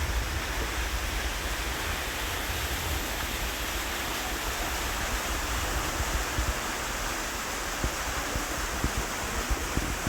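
Steady rushing of flowing water, with a few low knocks near the end.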